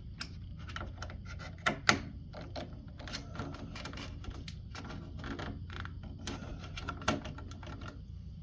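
Irregular clicks and taps as the RC car and its body are handled, with a couple of louder knocks about two seconds in and one about seven seconds in, over a steady low hum.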